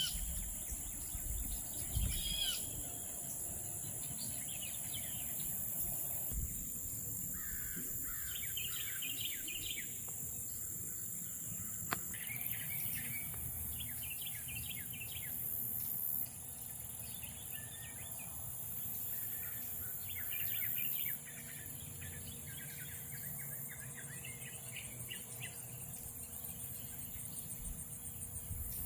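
Several birds chirping and calling over a steady high-pitched insect drone, with one sharp click about twelve seconds in.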